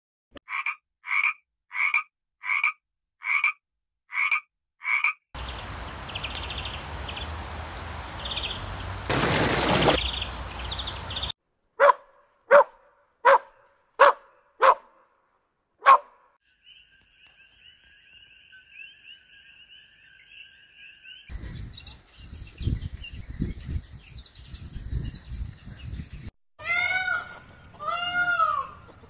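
A run of different animal calls, one kind after another. It opens with evenly spaced croaks about two a second for the first few seconds. Later come a few sharp calls in a row, a steady whistle-like tone, and near the end several arching calls.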